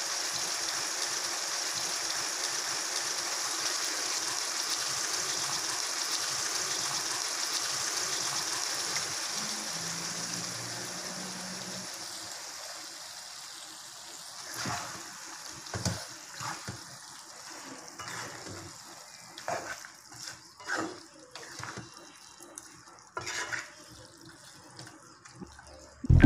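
Chicken frying in oil in a pan, a steady sizzle that dies away about halfway through, followed by scattered light clicks and knocks.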